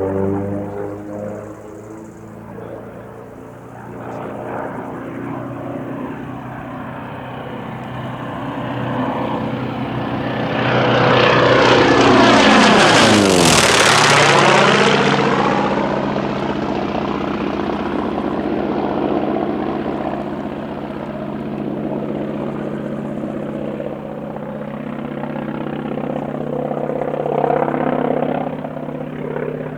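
North American T-28 Trojan's Wright R-1820 nine-cylinder radial engine and propeller in a low flyby. The sound builds to its loudest about halfway through, the pitch dropping sharply as the aircraft passes, then settles into a steadier, fainter drone as it moves away.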